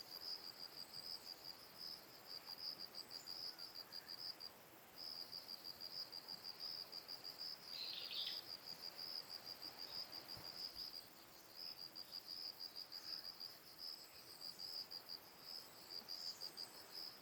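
An insect, cricket-like, chirping in a rapid, evenly pulsed high trill that breaks off briefly twice. A short separate call sounds once, about eight seconds in.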